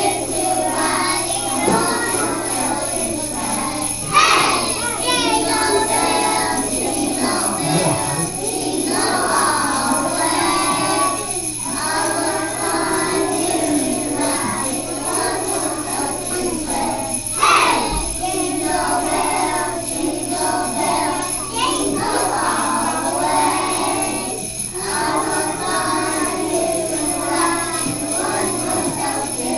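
A group of young children singing a Christmas song, with jingle bells ringing along. A steady low electrical hum sits underneath.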